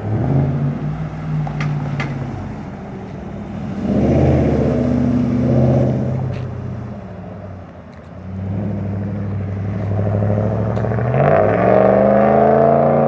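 Hemi V8 of a 2016 Dodge Ram with the muffler removed (Y-pipe muffler delete), idling and revved several times. The revs rise and fall in a few pulls, with the highest rev held near the end.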